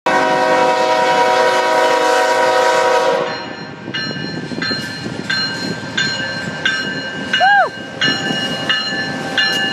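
Diesel freight locomotive sounding its horn as it reaches a grade crossing: a loud, steady chord of several tones that cuts off about three seconds in. The lead units then rumble past while a crossing bell rings steadily, about one and a half strokes a second.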